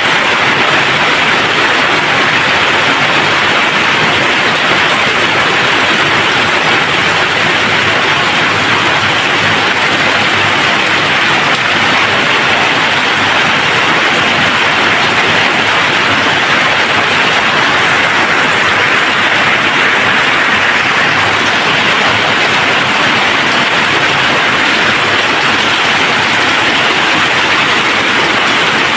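Steady rain falling without a break: an even hiss with no thunder.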